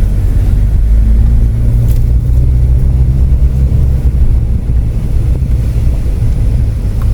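Car driving uphill on a mountain road: a steady low engine and road rumble.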